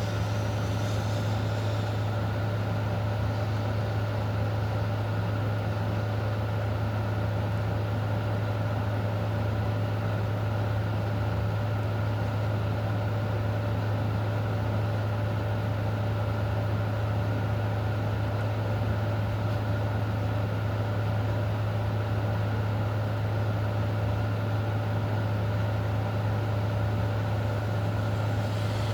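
Steady rain hiss under a constant low mechanical hum, unchanging throughout.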